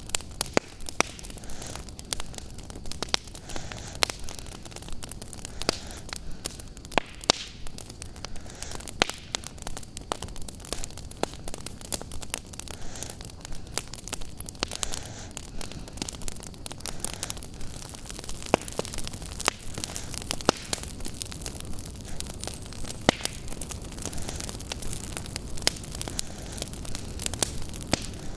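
Wood fire crackling in a fireplace: irregular sharp pops and snaps, several a second and some louder than others, over a steady hiss.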